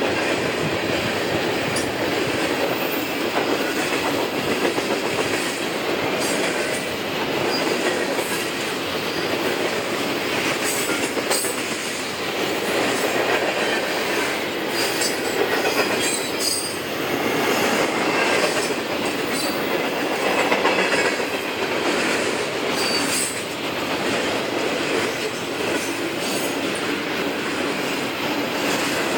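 CSX freight train's cars rolling past steadily, with the clatter of wheels over rail joints and brief high squeals from the wheels now and then.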